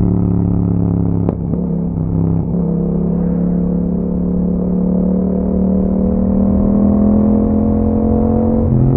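2021 Yamaha MT-07's 689 cc parallel-twin engine running through an Akrapovic exhaust under way, shifting gear twice: a click and a break in the note about a second in and again about two and a half seconds in. After the second shift the engine pulls steadily, its pitch slowly rising, and the note changes again near the end.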